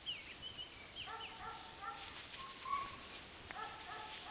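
Several birds calling: short falling chirps mixed with runs of quick repeated notes, going on throughout.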